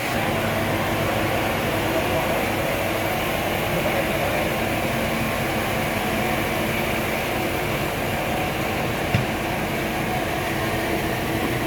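Sawmill machinery running steadily, a constant mechanical hum with a single sharp knock about nine seconds in.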